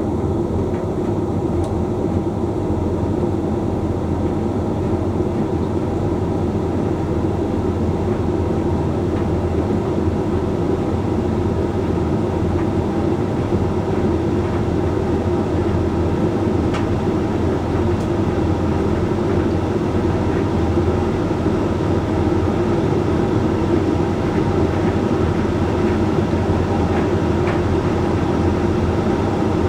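Hoover Link X Care HLX C10DRGR condenser tumble dryer running mid-cycle: a steady motor hum and drum rumble.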